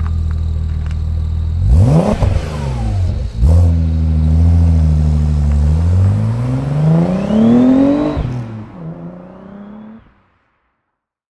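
Audi S4's 2.7-litre twin-turbo V6 running at idle, blipped sharply twice, then pulling away. Its note rises steadily as it accelerates, drops about eight seconds in, and fades as the car moves off, until the sound cuts out about ten seconds in.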